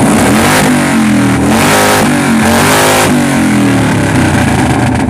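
Loud car engine revved hard through its exhaust for an exhaust loudness measurement. The revs climb over the first second and a half, hold high, then drop away about three seconds in.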